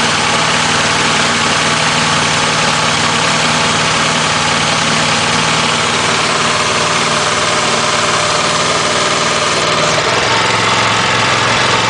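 Small gasoline engine of an engine-driven high-pressure washer running steadily at a loud, even speed, with a dense hiss over the engine note. About ten seconds in, the engine's note shifts.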